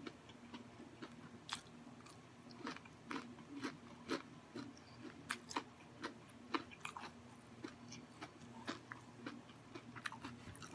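Close-miked chewing of crispy coconut-breaded fried shrimp: irregular crunches of the breading, a few a second.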